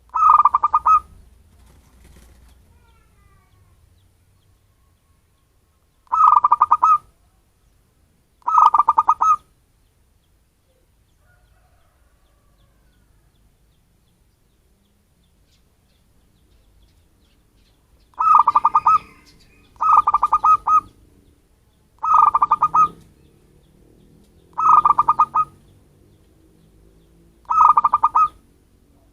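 Zebra dove (perkutut) cooing: eight short phrases of rapid staccato coos, each about a second long, with a long pause after the first three and then five in quicker succession. A local wild-type bird's call, used as a lure call to attract doves.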